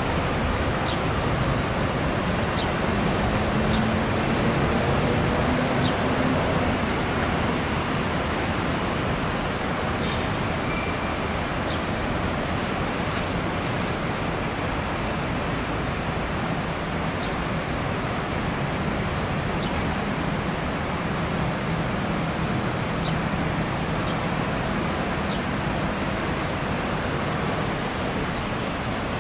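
Steady street traffic noise, with a dozen or so faint short high chirps scattered through it.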